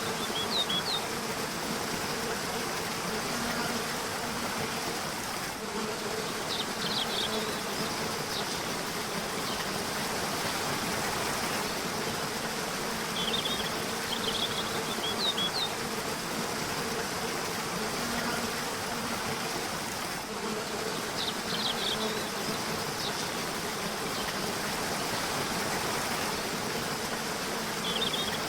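Steady rush of a river, with a low buzzing hum that swells and fades and short high bird chirps in brief clusters every several seconds.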